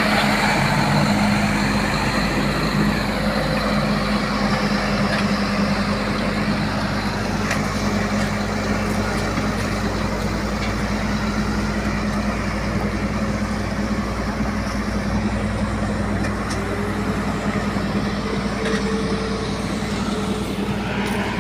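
Heavy truck's diesel engine running steadily, from an Iveco boom truck; a faint steady whine joins in about three-quarters of the way through.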